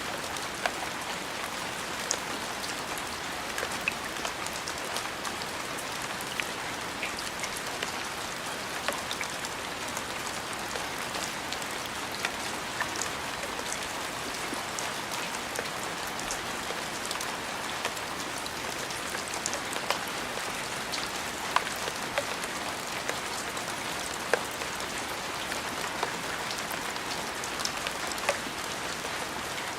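Steady rain falling on a surface, an even hiss with scattered individual drops landing.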